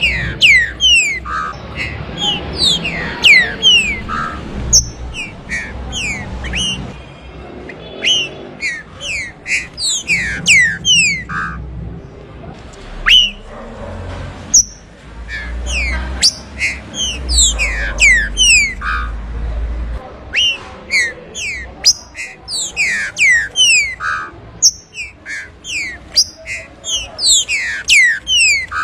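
Green-winged saltator (trinca-ferro) singing: loud phrases of quick, steeply falling whistled notes, repeated with short pauses between phrases.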